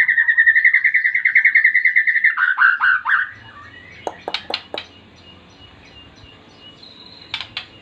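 A songbird singing a loud, fast, even trill that ends in a few falling notes about three seconds in, followed by a few short sharp chip calls, some about four seconds in and more near the end.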